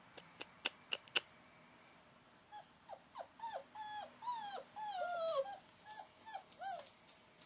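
German Shepherd puppy whimpering: a run of short, high whines that mostly fall in pitch, starting a couple of seconds in. Before them come a few sharp clicks.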